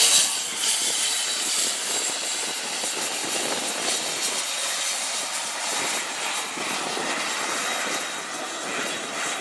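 SubSonex JSX-2 microjet's small turbojet engine running steadily at taxi power, a loud even jet hiss and whine.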